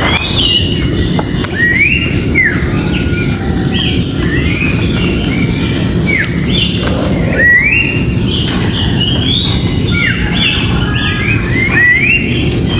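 Wild birds singing in a bamboo grove: many short whistled notes, each rising and then holding, repeated and overlapping throughout. A steady low rumble of noise runs beneath them.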